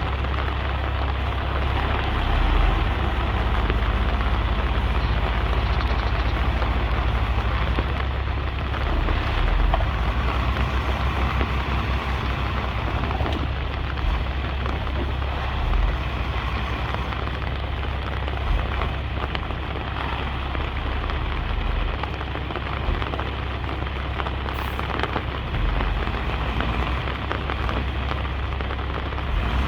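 Bulldozer pushing soil, its diesel engine running steadily under an even rushing noise.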